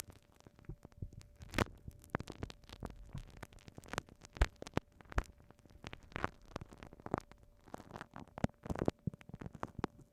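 Glue stick worked against a binaural microphone, making dense, irregular sticky crackles and clicks with a few louder pops.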